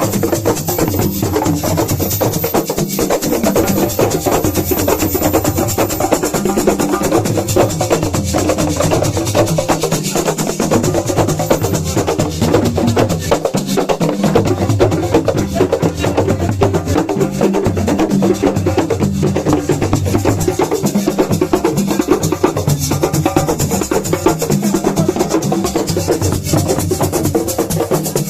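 Assiko percussion music: dense, continuous drumming with sharp clicking strokes over a repeating low drum pattern, without singing.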